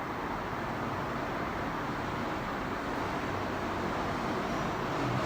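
Steady, even background noise with no speech or distinct events.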